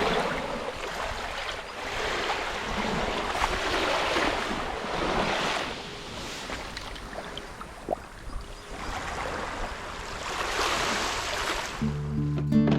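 Sea waves washing ashore, a rushing hiss that swells and falls back every few seconds. Music with a steady pitched accompaniment comes in near the end.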